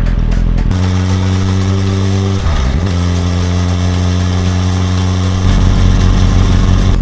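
Motorcycle engine running at a steady pitch. About two and a half seconds in it dips briefly in pitch and comes straight back up.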